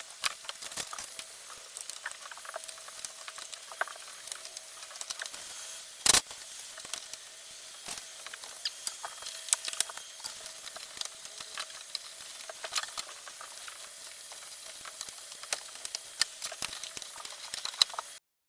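Water spray hissing steadily while an air-conditioner fan is washed, with scattered sharp patters and ticks of water striking parts and a faint steady tone underneath. The sound cuts off abruptly near the end.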